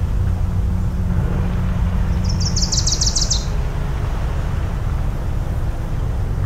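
Low steady rumble of a passing motorboat engine over surf at the shore. A small bird breaks in with a quick, bright trill of about ten notes, about two seconds in.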